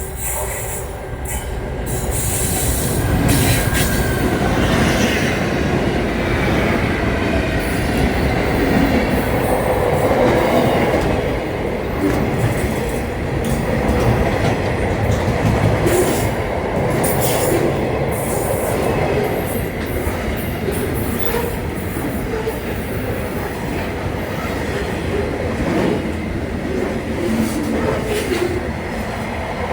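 Train running on the track: a steady rumble with wheels clacking over rail joints and some wheel squeal.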